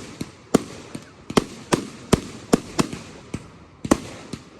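Fireworks display: a rapid, irregular string of sharp bangs, about two or three a second, each followed by a brief echoing tail.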